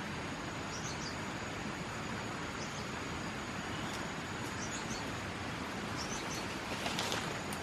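Tropical forest ambience: a steady high insect drone with scattered short bird chirps over an even background hiss. There is a brief rustle near the end.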